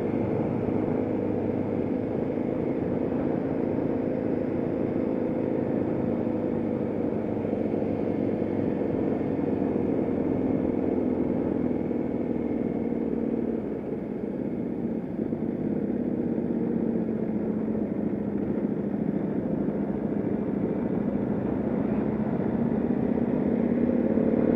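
Motorcycle engine running at low, steady throttle at slow lapping speed. Its pitch drifts gently and dips briefly about 14 seconds in, as at a throttle lift or gear change, then climbs again near the end.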